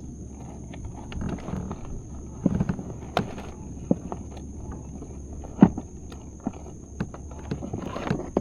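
Irregular clicks and knocks of gear being rummaged through aboard a kayak while searching for pliers, the loudest knock a little past halfway.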